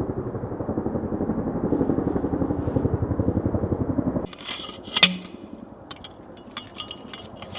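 An engine running with a steady, even pulse, stopping abruptly about four seconds in. About a second later comes one sharp metallic clank, then light scattered clicks.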